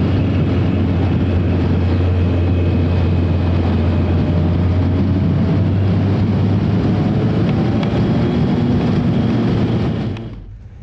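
Yamaha FJ1200's air-cooled inline-four engine running at a steady cruise, mixed with wind and road noise at the onboard camera. The sound fades out abruptly near the end.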